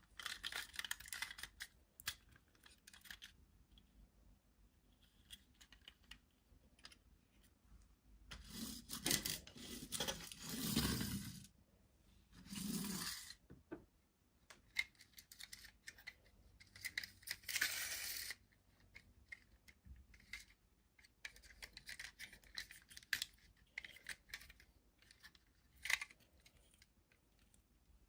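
Toy packaging being handled and opened by hand: scattered small clicks and scratches, with a few louder stretches of tearing and rustling about a third and two-thirds of the way through.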